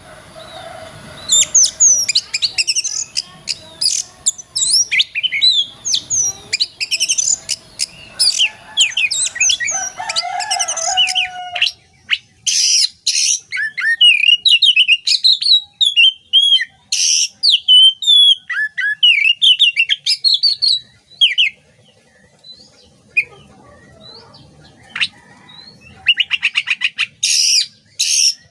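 Oriental magpie-robin (kacer) singing a fast, varied song of sliding whistles and chirps, broken by short buzzy rattles about twelve and seventeen seconds in and again near the end.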